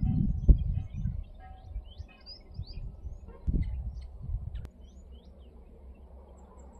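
Wind buffeting the microphone in gusts, loudest in the first second and again about three and a half seconds in. Small birds chirp faintly in short high notes through the middle.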